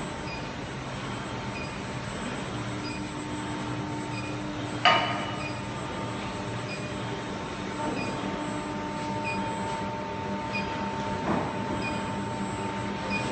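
Small induction gold melting furnace running: a steady hum with a faint whine, light ticks about every three-quarters of a second, and a sharp metallic clank about five seconds in, with a smaller knock near the end.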